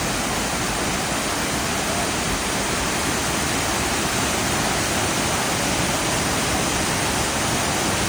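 Cheeyappara waterfall: falling water making a steady, unbroken rush.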